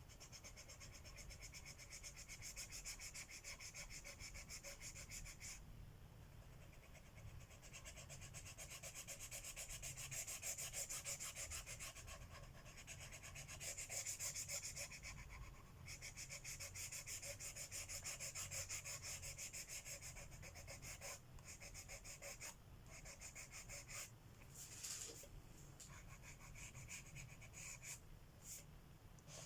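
Colored pencil shading on paper: rapid back-and-forth scratching strokes, faint, stopping briefly a few times.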